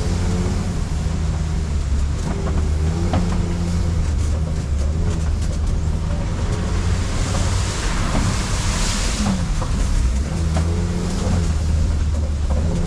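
Safari ride truck's engine running steadily as it drives along, with scattered rattles and knocks from the vehicle and a brief rush of hiss about eight seconds in.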